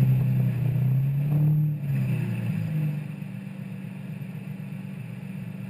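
Lamborghini Murciélago V12 idling while parked, dropping to a quieter, lower idle about three seconds in.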